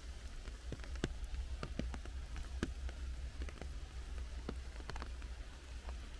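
Rain in a forest: separate drops falling onto leaves at irregular moments over a steady hiss of light rain, with a steady low rumble underneath.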